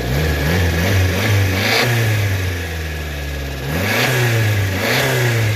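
Subaru Sambar minitruck engine revved twice from idle. Each time the pitch climbs, holds for a second or so, and drops back to idle. It runs smoothly.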